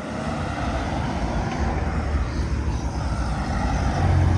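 Car engines and exhausts running as cars move past, a low rumble that swells louder near the end.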